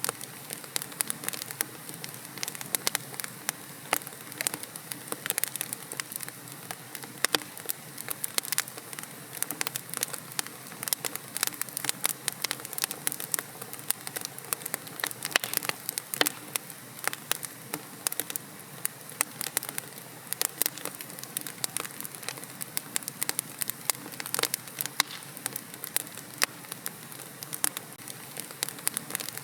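Wood fire in a fireplace: logs burning with a steady soft hiss and frequent sharp crackles and pops.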